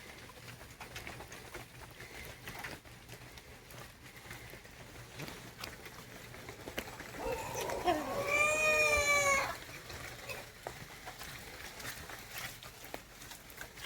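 A goat bleats once about halfway through, a long call of roughly two seconds that wavers at first and then holds steady.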